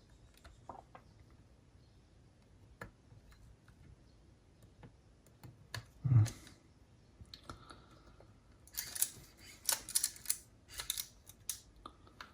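Aiwa HS-PL55 cassette walkman mechanism being tried out: scattered sharp clicks of its buttons and mechanism engaging, a louder thud about six seconds in, and a quick run of clicks in the last few seconds.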